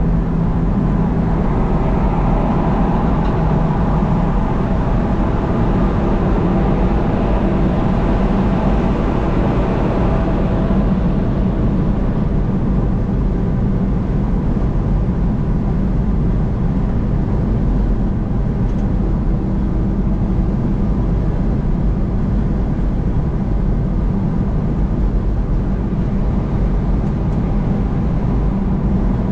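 Steady road and engine noise of a vehicle travelling at highway speed, with a constant low hum beneath the tyre noise.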